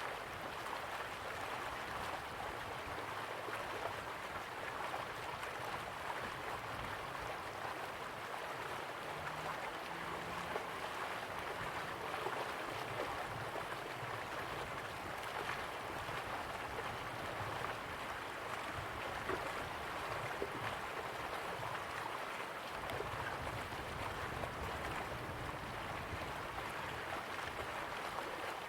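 Slow-flowing river water, a steady gentle rush with small trickles and gurgles.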